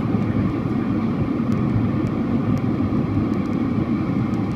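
Steady engine and airflow noise inside the cabin of a Boeing 767-400ER airliner, a low, even rumble with a faint hiss above it.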